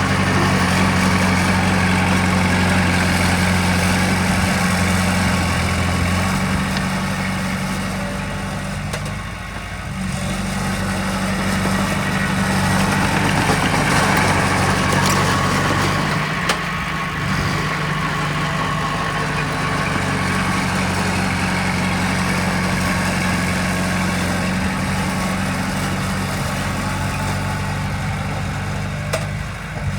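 Diesel engine of heavy earthmoving machinery running steadily. Its low note breaks off briefly about nine seconds in and again around sixteen seconds, with a couple of short sharp knocks.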